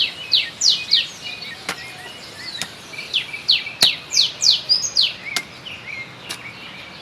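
Birds chirping: a quick series of short, falling high notes, several a second. A few sharp single knocks fall between them at irregular intervals.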